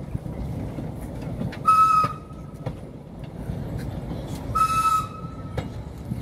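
Vintage narrow-gauge railway carriages rolling slowly past with a low rumble and scattered clicks from the wheels over the track. A short, high-pitched squeal comes three times, about every three seconds.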